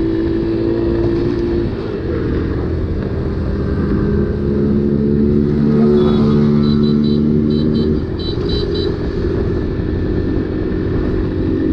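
Motorcycle engine running as the bike is ridden along at a steady pace, with wind and road noise on the rider's microphone; the engine note shifts slightly a couple of times. A short run of high beeps comes in around the middle.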